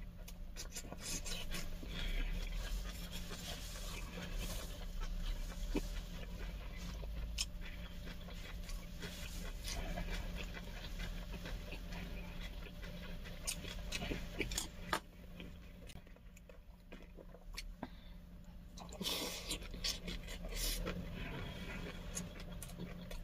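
Close-up eating sounds: a person chewing cabbage-leaf wraps, with wet mouth noises, breathing and many irregular small clicks and crunches. A quieter stretch falls in the middle.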